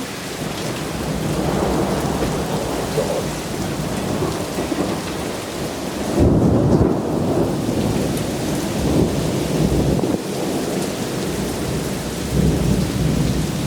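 Thunder rumbling over steady heavy rain in a severe thunderstorm, with a loud low peal about six seconds in and another swell of rumbling near the end.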